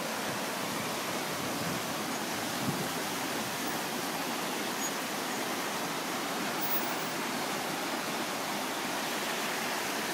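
Floodwater rushing past in a steady, unbroken roar of fast-flowing water.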